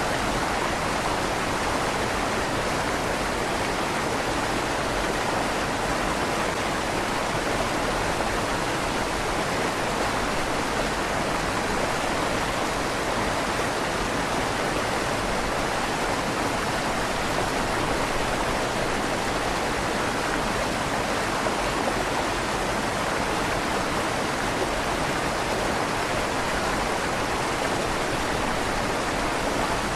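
River water flowing steadily through a stone tunnel under a bridge, a continuous even rush with a slight echo off the tunnel walls.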